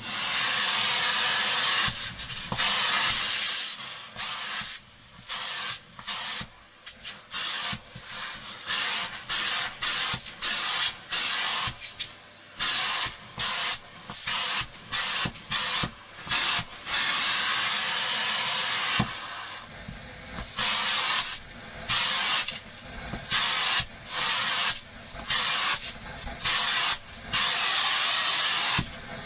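A small bench vacuum cleaner running, its suction a loud hissing rush of air with a faint high motor whine, as it sucks dust off vacuum-cleaner filters. The rush drops away and comes back many times at irregular intervals.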